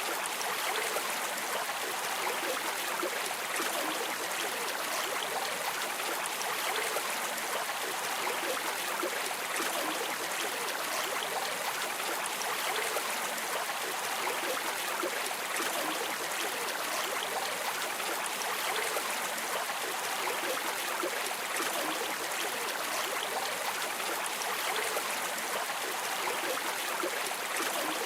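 River water flowing steadily, an even hiss with very little low end and no breaks.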